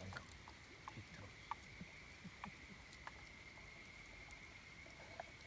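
Wood campfire crackling faintly, with scattered small pops and ticks, over a faint steady high-pitched tone.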